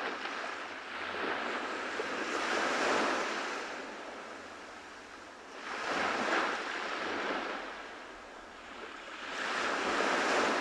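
Ocean surf washing onto a tropical beach in three swells, each wave building, breaking and drawing back over a few seconds.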